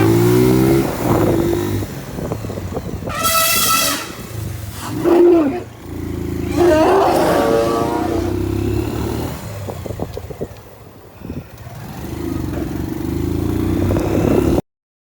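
Motorcycle engine running steadily, with two loud pitched calls over it, about three and seven seconds in; the sound cuts off abruptly near the end.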